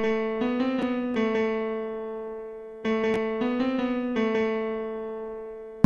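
Background music: an electric-piano-like keyboard plays a short phrase of a few notes that slowly fades, and the same phrase starts again about three seconds in.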